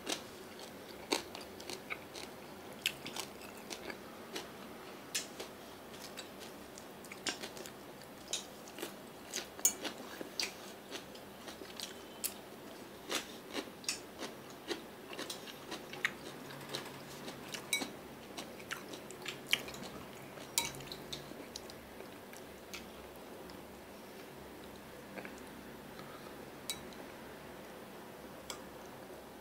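A person biting and chewing crunchy food close to the microphone: irregular small crunching clicks, one or two a second, thinning out after about twenty seconds.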